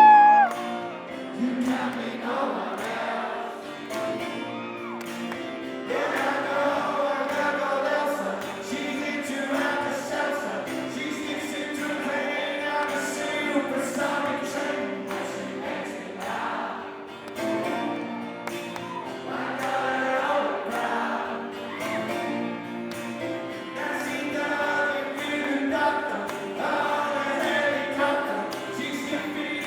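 Live rock band playing an acoustic arrangement, with singing that sounds like many voices together over the steady strumming and sustained chords. A loud high cry rings out right at the start.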